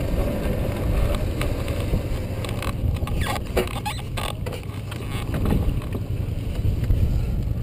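Sport motorcycle engine running at low speed as the bike rolls slowly, with wind on the mic and a few light clicks about halfway through.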